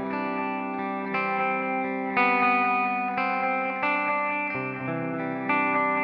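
Electric guitar played through an Old Blood Noise Endeavors Sunlight Stereo reverb pedal with its delay at full time and feedback up: a new note comes in about once a second and each rings on over the last. The first delay repeat has no attack and fades in.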